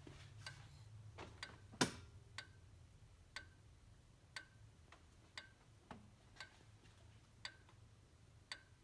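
A shut-off 2002 Mercedes C32 AMG ticking steadily, about once a second, each tick sharp with a brief ring, one louder tick about two seconds in. The cause of the ticking is unknown to the owner. A faint low hum lies under it.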